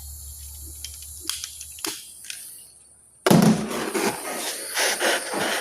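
A handheld gas torch lights with a sudden pop about three seconds in, then its flame hisses steadily, heating a rust-seized exhaust stud. A few faint clicks of handling come before it.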